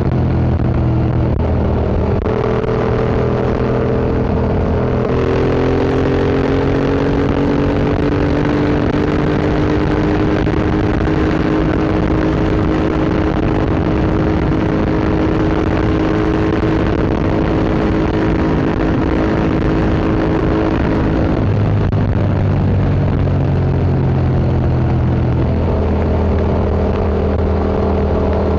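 Yamaha MT-07's parallel-twin engine through an Akrapovic Racing Line exhaust, under way on the road. The engine note steps up about two and five seconds in, rises slowly and steadily for some fifteen seconds, then drops back to a lower note a little past twenty-one seconds.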